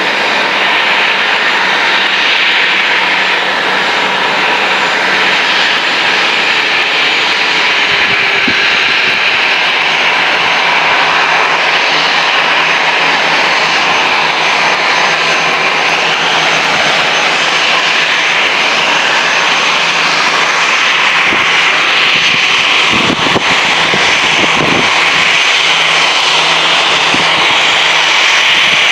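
Boeing 737-800's CFM56 turbofan engines running: a loud, steady jet roar with a high whine over it, growing slowly louder.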